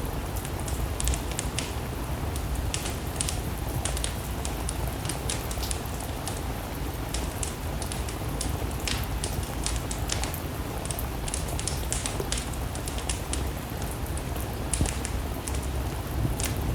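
Steady rain mixed with a crackling wood fire: frequent sharp crackles and pops over a constant hiss and a low rumble.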